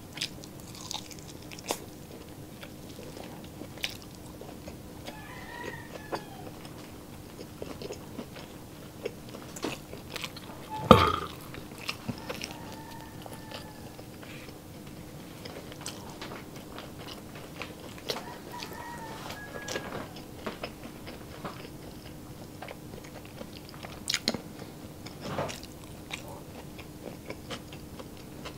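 Close-miked chewing, biting and lip-smacking of a person eating garlic longganisa sausage and fried rice by hand, with one louder smack about eleven seconds in. A faint steady hum runs underneath.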